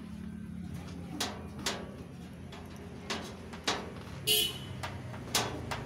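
Clothes dryer's metal cover panel being refitted: a run of sharp knocks and clicks over a low hum, with one brief high-pitched tone about four seconds in.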